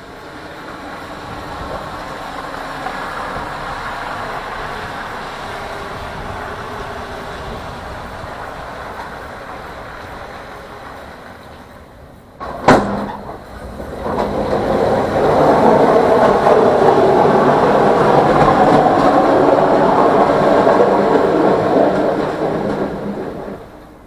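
Vehicle noise that swells and fades, then a single sharp knock about halfway through, followed by a louder steady rumble that drops away near the end.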